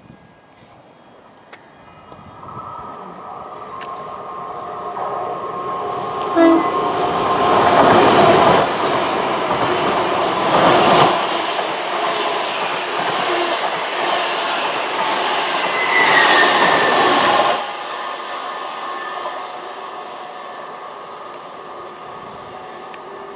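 Great Western Railway Hitachi Intercity Express Train passing through a station. The rumble and wheel-on-rail noise builds over several seconds, stays loud for about ten seconds as the coaches go by, then drops away suddenly and fades.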